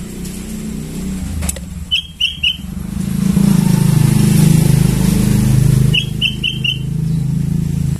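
A motor vehicle's engine running close by, swelling to its loudest in the middle and cutting off abruptly at the end. Over it, a sooty-headed bulbul gives two quick runs of short chirps, three notes and then four.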